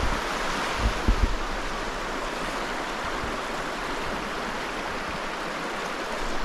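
Steady rushing of water from a creek and waterfall, with a couple of brief low thumps on the microphone about a second in.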